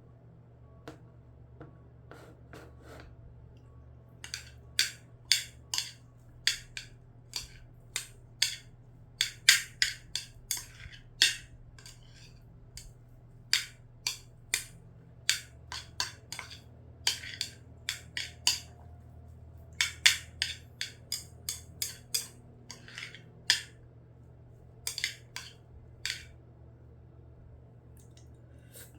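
Close-miked eating: chewing with sharp, wet mouth clicks at about two a second, coming in runs with short pauses, over a steady low hum.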